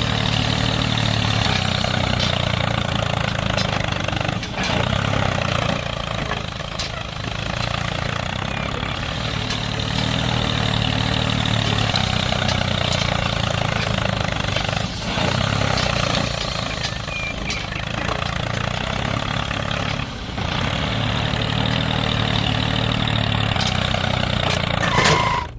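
Heavy machine engine running steadily, with a low hum and a few short dips in level.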